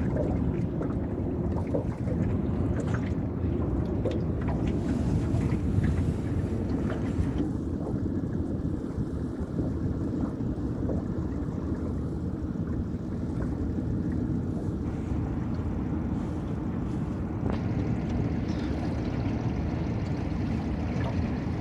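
Honda 20 hp four-stroke outboard running steadily on a 14-foot aluminum boat, with wind buffeting the microphone.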